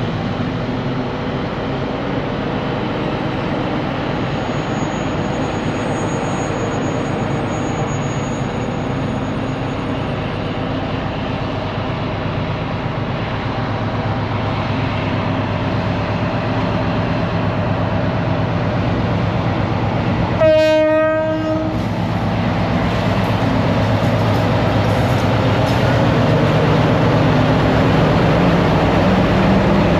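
Train running through the station with steady engine and rail noise, growing slightly louder, and one short horn blast about two-thirds of the way through.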